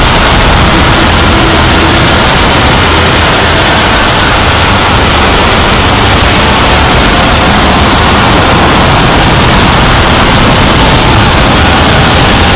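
Loud, steady wall of harsh static-like noise across all pitches, with no clear voices or tones: heavily distorted, clipped audio.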